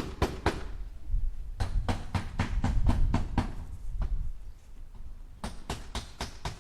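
Hammer striking nails into wood in quick runs of about five blows a second. The runs stop briefly about half a second in and again about four seconds in.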